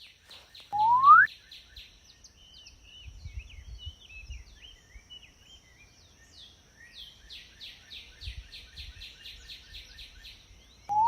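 Birdsong ambience: many small birds chirping and trilling in quick repeated notes. About a second in, a short, loud rising whistle-like sweep sounds once.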